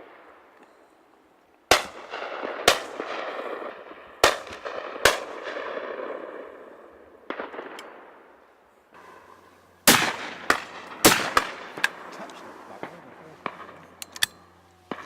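Shotguns firing at driven game birds: about a dozen separate reports, some close and loud, others more distant, each trailed by a rolling echo. The shots come in pairs and clusters, thickest in the second half. A low steady hum sets in about halfway.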